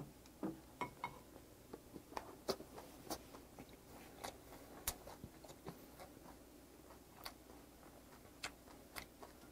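Chewing a mouthful of rice with soy-sauce-marinated crab, picked up close on a clip-on microphone: faint, irregular wet mouth clicks and smacks, several a second at first, thinning out toward the end.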